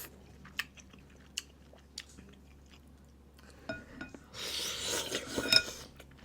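Close-miked eating of a seafood boil: chewing and biting, with a few sharp clicks early on. About four and a half seconds in there is a louder, noisy stretch of crunching and rustling lasting about a second and a half.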